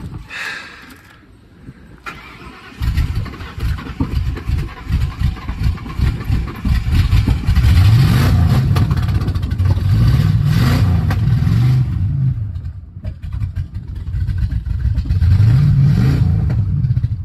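2000 Ford Explorer's 5.0 L V8 cranking in the cold and catching after a few seconds, then running unevenly while it is revved up and down several times to keep it going. The hard start is one the owner puts down to a faulty sensor.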